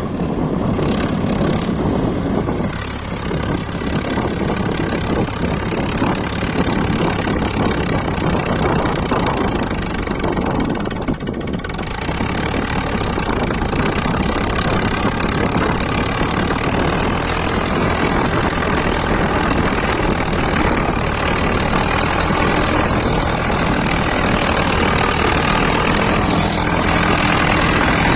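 Swaraj 855 tractor's diesel engine running steadily under load while pulling a plough, with its pitch and level shifting slightly as the load varies.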